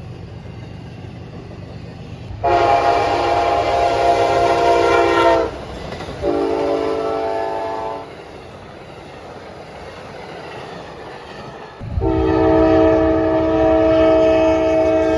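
Nathan K5HLB five-chime locomotive air horn on CSXT 5284 sounding three blasts: a long one, a shorter one, then after a pause another long blast that starts about 12 seconds in and keeps going. A low train rumble runs underneath.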